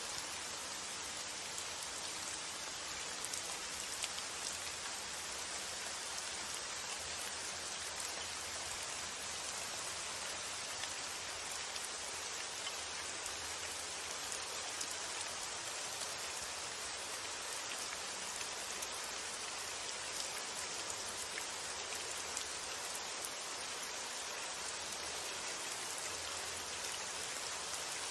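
Steady rain falling: an even hiss with many fine drop ticks and no let-up.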